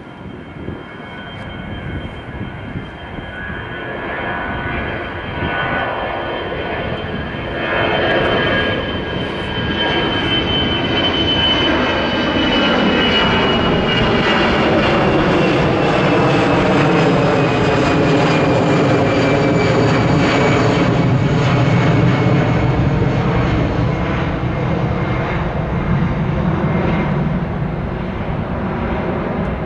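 Airbus A320 jet engines at takeoff thrust as the airliner goes past, growing steadily louder over the first several seconds. A high whine then falls slowly in pitch as it passes, under a steady low rumble that eases slightly near the end.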